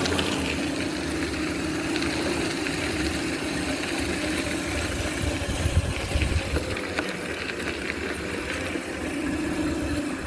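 Homemade electric motorbike's 24-volt motor running with a steady hum, over a low rumble and a few scattered clicks.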